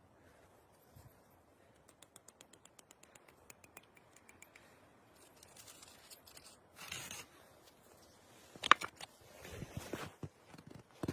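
Close handling sounds: a quick run of small clicks lasting a couple of seconds, then a brief rustle, a sharp knock about two-thirds of the way in, and more scattered knocks and scrapes.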